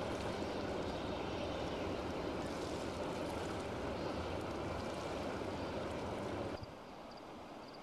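Steady rushing noise of a freight train's hopper cars rolling past, mixed with the rush of the river. About six and a half seconds in, the sound drops suddenly to a quieter hiss.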